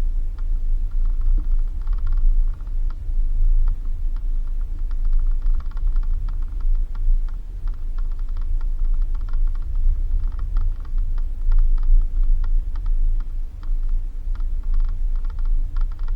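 Suzuki Jimny driving on a rough dirt road: a steady low rumble with clusters of rapid rattling and clicking that come and go, the cabin and body rattling and creaking over the bumps.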